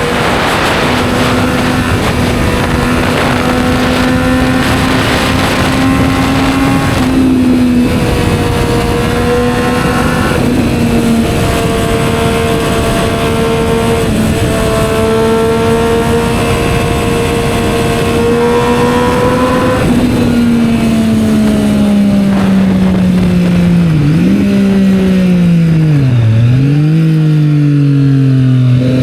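Triumph Street Triple 765 R's inline-three engine through a Yoshimura exhaust, holding steady at cruising revs with a few small steps in pitch, with wind rush early on. About two-thirds of the way through the revs fall away, with two short blips on the way down, and settle to a low, idle-like note near the end.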